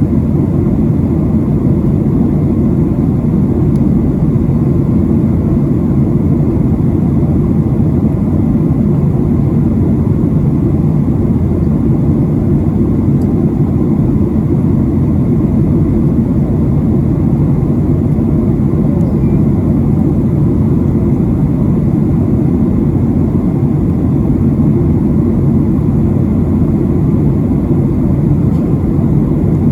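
Steady cabin noise inside a Boeing 737-700 in descent: an even low rush of airflow and CFM56 jet engines, unchanging throughout.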